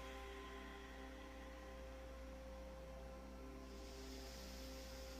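Faint ambient drone music: soft sustained tones held steadily, over a constant low hum.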